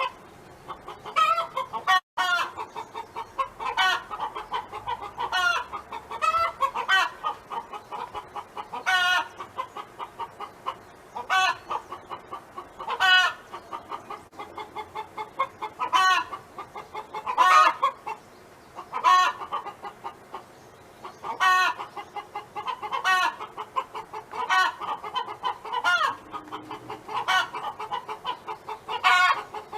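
Domestic hen clucking continuously: a run of short clucks, with louder, drawn-out calls standing out every couple of seconds.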